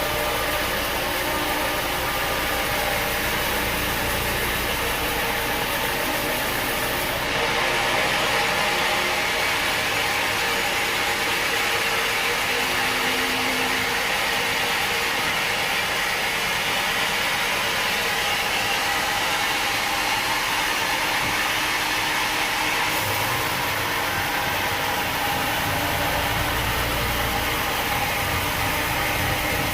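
Sawmill machinery running steadily. From about seven seconds in until about 23 seconds there is a brighter, hissier noise on top.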